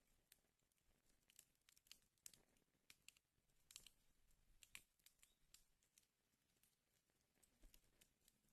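Wood fire burning in a fireplace, faintly crackling with irregular sharp pops and snaps, several a second at times, over a soft hiss.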